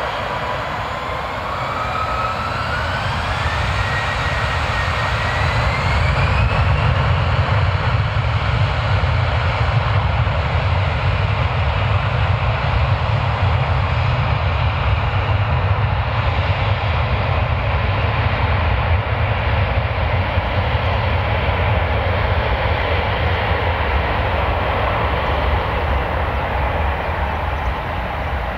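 Bombardier CRJ-900's two rear-mounted GE CF34 turbofans spooling up to takeoff thrust: a whine that rises in pitch over the first few seconds, then a loud, steady jet roar with a deep rumble.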